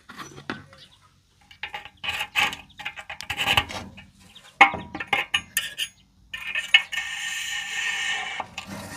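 Small metal objects clinking and clattering against metal in a string of irregular clinks, followed by a few seconds of steady rushing, rattling noise.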